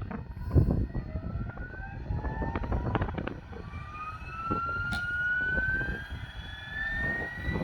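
Electric motor whine of a Flywing Bell 412 RC helicopter, its pitch climbing slowly and steadily as the rotor speeds up, with wind gusting on the microphone.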